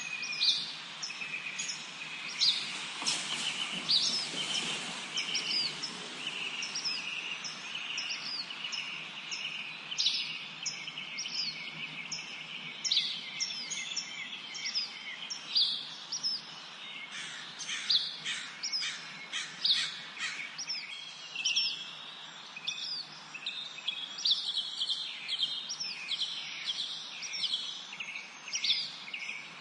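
A chorus of songbirds in a spring forest: many short, quick chirps and trills from several birds overlap continuously over a steady low hiss. A brief swell of rushing noise comes about three seconds in.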